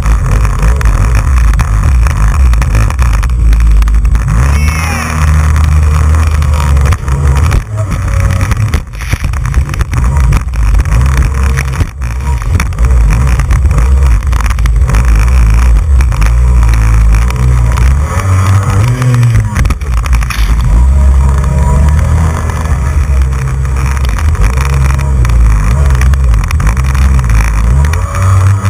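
Jet ski running at speed over open water, its engine pitch rising and falling, under heavy wind buffeting on the microphone, with sharp knocks here and there.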